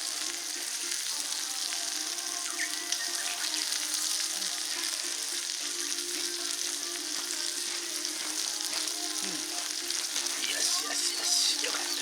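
Wood campfire burning with a steady sizzling hiss and a few faint crackles.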